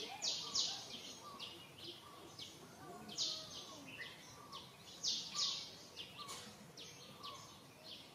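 Outdoor ambience of birds chirping: short, sharp, scratchy chirps come irregularly about twice a second, some louder than others, over softer warbling notes.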